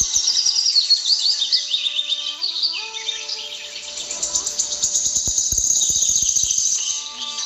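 Birds chirping in quick, short calls, joined about four seconds in by a high, steady insect trill. Soft sustained background-music tones run underneath.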